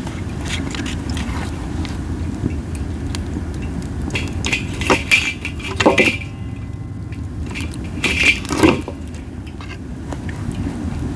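Japanese spindle (masaki) wood burning in a campfire, crackling with scattered sharp pops that come in clusters about halfway through and again near the end. Under it runs a steady low rumble of wind on the microphone.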